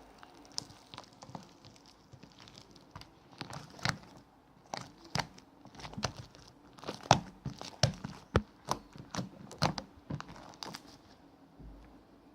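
Irregular crinkling and crackling, a run of sharp uneven clicks of varying loudness, stopping near the end.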